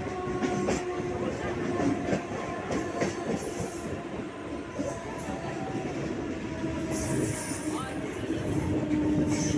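Siemens EMU local train running, heard from inside the coach: a steady rumble of wheels on the rails with a steady whine and scattered clicks. Brief high wheel squeals come a few seconds in and again near the end.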